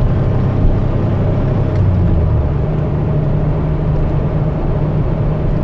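1981 DeLorean DMC-12's PRV 2.85-litre V6, fitted with an aftermarket exhaust, running on the road just after a downshift, heard from inside the cabin along with road noise. The engine note rises in pitch about two seconds in.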